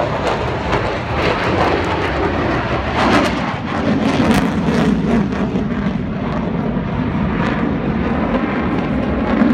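F-15SG fighter jet's engines during a high-speed display pass, a loud, steady jet rush with a deeper rumble growing from about halfway through.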